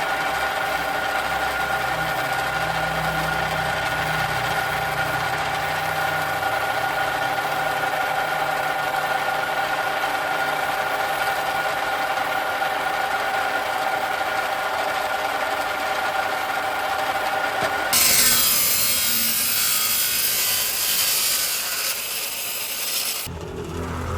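Electric power tool running with a steady whine. About eighteen seconds in it gives way to a loud, harsh grinding or sanding noise for about five seconds, which stops abruptly near the end.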